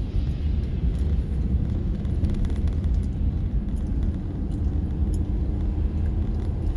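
Steady low rumble of an SUV driving, heard from inside the cabin.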